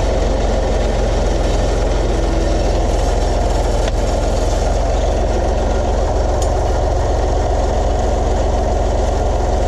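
Farm tractor engine running steadily at an even speed, close by.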